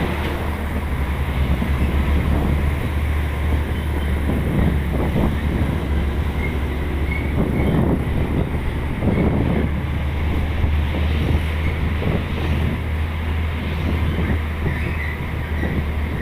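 Heavy truck running along the road: a steady low engine drone with rumbling road noise that swells and eases every second or two.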